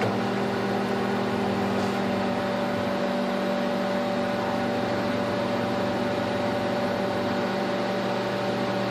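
Microwave oven running steadily, heating a marshmallow: an even hum of several fixed tones over a fan-like whir, with no change in pitch or level.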